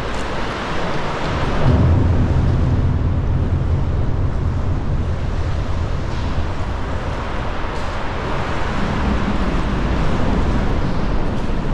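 Sea water sloshing and washing around a sea kayak, with wind buffeting the microphone as a steady low rumble.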